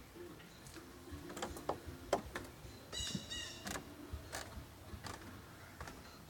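A bird giving a short, rapid series of high chirps about three seconds in, among scattered sharp clicks and taps, the loudest of which comes about two seconds in.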